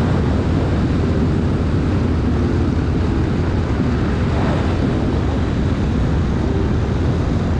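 Motorcycle engine running steadily under way, a constant low rumble mixed with wind noise.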